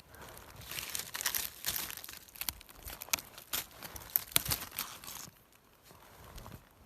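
Irregular rustling and crackling of dry leaves and undergrowth being pushed through and handled, dying down about five seconds in.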